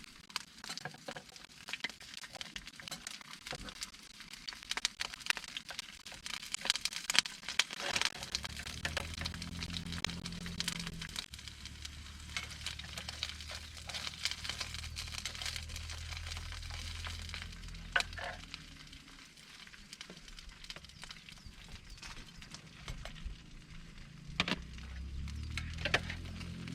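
Food sizzling and crackling in a pan, with many small pops and clicks over a steady hiss. A low steady hum comes in about eight seconds in, drops away past the middle and returns near the end.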